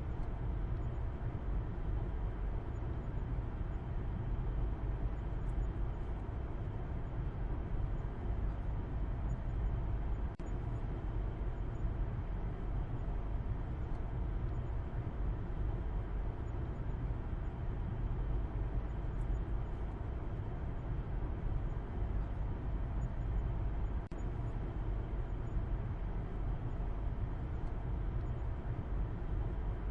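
Steady low rumble of a car driving, engine and tyre road noise as heard inside the cabin, unchanging in level.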